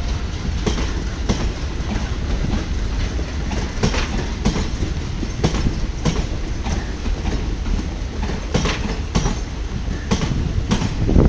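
Passenger coaches of a departing express train rolling past, their wheels clacking over rail joints in pairs, over a steady rumble and the hiss of heavy rain.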